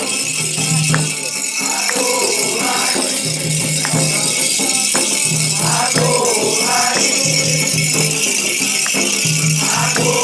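Candomblé ritual music: a shaker rattle sounding steadily over repeated drum beats, with voices singing.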